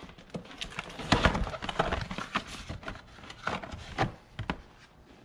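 Irregular clicks and knocks of tools and parts being handled and set down on a hard surface, busiest over the first couple of seconds and thinning out near the end.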